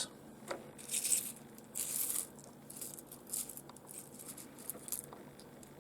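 Small pieces of rough seam opal being moved about by hand, giving several short scratchy clicks and scrapes spaced about a second apart.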